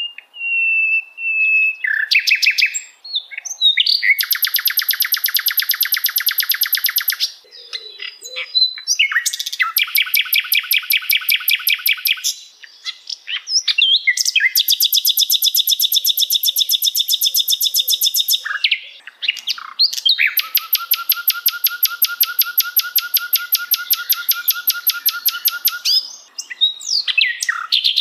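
Songbird song: long, fast trills of rapidly repeated notes, four of them lasting several seconds each, broken up by short varied chirps and whistles.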